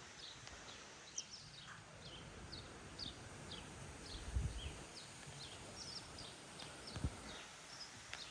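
Small birds chirping: a steady run of short, high, downward-sliding chirps, several a second, over faint outdoor background, with two soft low bumps about halfway through and near the end.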